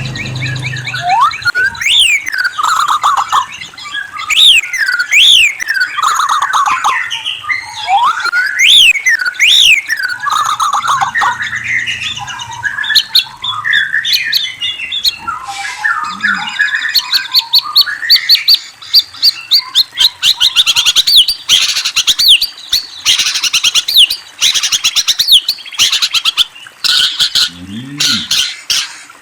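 A murai songbird (magpie-robin type) singing. For the first dozen seconds it gives loud, sharply rising whistles, repeated every couple of seconds. It then breaks into fast chattering trills and clicking notes.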